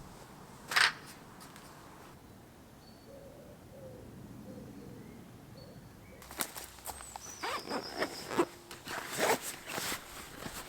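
A single sharp click about a second in, then a quiet stretch with faint bird calls, then from about six seconds in fabric rustling, clicks and a zip as camping gear is handled.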